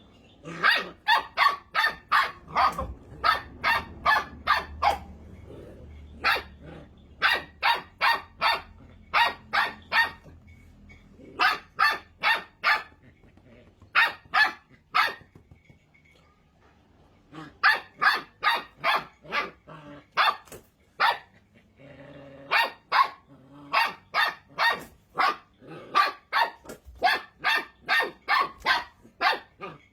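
Puppy barking in fast runs of short yaps, three or four a second, with brief pauses between runs.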